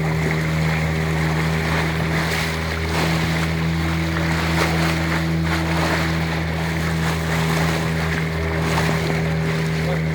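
A boat's engine running at a steady speed, a constant low drone, with water rushing and splashing past the hull and wind on the microphone.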